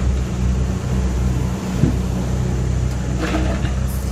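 Diesel engine of an excavator or truck running steadily at low revs, with a single brief knock about two seconds in.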